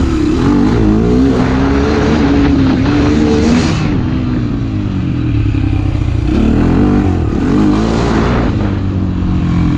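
Motorcycle engine under way, its pitch climbing and dropping several times as it accelerates and eases off, over a steady rush of wind noise.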